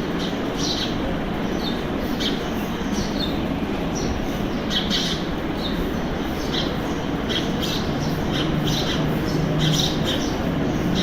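House sparrows chirping in short, quick calls scattered through, over a steady background rumble.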